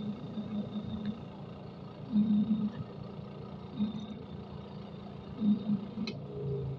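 Newly replaced spin-dryer motor of a twin-tub washing machine running on test, a steady hum with louder swells every second or two. A sharp click comes near the end.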